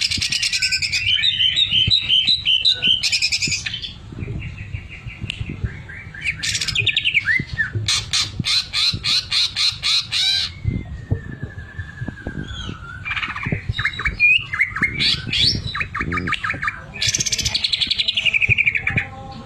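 Green leafbird (cucak ijo) singing a loud, varied song of dense chattering trills, a run of rapid even strokes about four a second, and a slow gliding whistle. The song carries the mechanical rattling 'sewing machine' phrase that bird keepers train into it.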